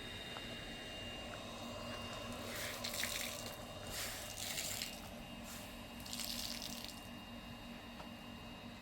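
Water from a tap running into a sink in three short spurts, each lasting about a second.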